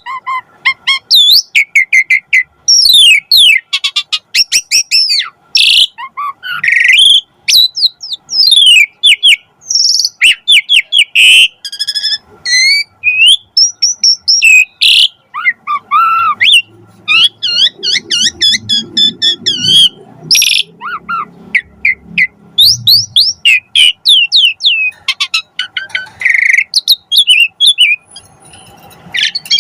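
Asian pied starling singing continuously: a long, varied run of quick chirps, whistled notes and rapid sweeping calls, with almost no pauses.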